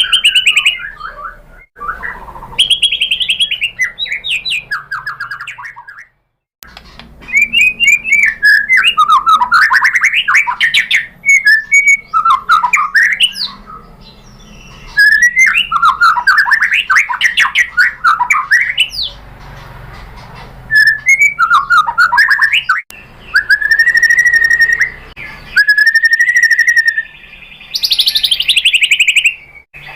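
White-rumped shama (murai batu) singing, as used to provoke a captive shama into song: loud, varied whistled phrases and fast trills with short pauses between them, and long held whistles near the end.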